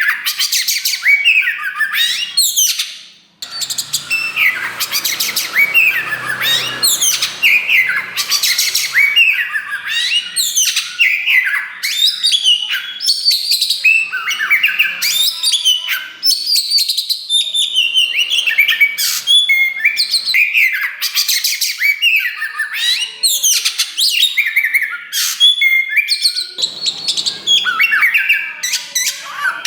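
Black-plumaged (kacer wulung) oriental magpie-robin singing loudly and without let-up, a fast, varied run of whistled sweeps, trills and chirps, with one brief break about three seconds in.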